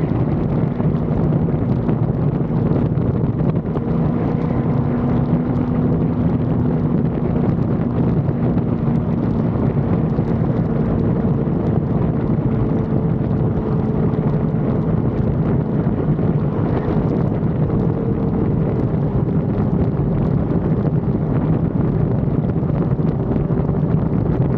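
Sport motorcycle's engine running at a steady cruise, its note holding level, under heavy wind rush on the action-camera microphone.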